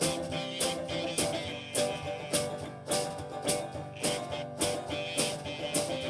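Instrumental break of a slow blues song: guitar playing over a steady beat of just under two strokes a second, with no singing.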